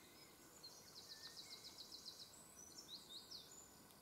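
Faint woodland birdsong: a quick run of about ten high chirps about a second in, followed by a few more high notes.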